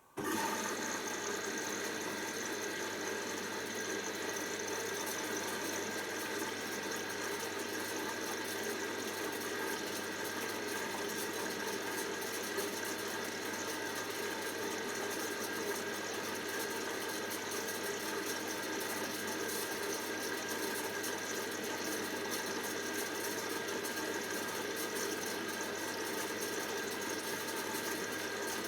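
Hoover DYN7144XD1 washing machine running: a steady mechanical hum with a constant whine, unchanging throughout.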